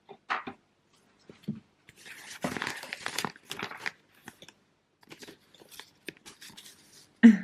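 Paper and parcel packaging rustling and crinkling in irregular bursts as the notes are unfolded and handled, busiest about two to three seconds in.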